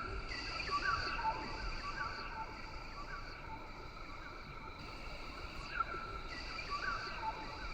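Rainforest ambience: a steady chorus of insects holding high, even tones, with many short chirping calls repeating over it and a low background rumble.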